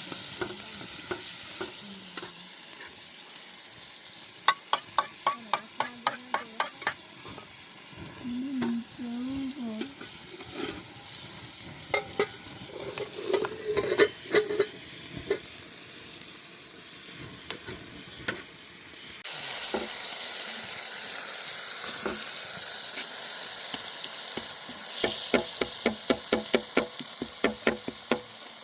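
Food sizzling in a pan while a utensil stirs it, tapping and scraping the pan in quick runs. The sizzle gets suddenly louder about two-thirds of the way through.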